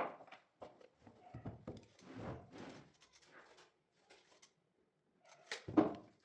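A string of knocks and short scrapes from objects being handled and set down, the loudest knock coming near the end.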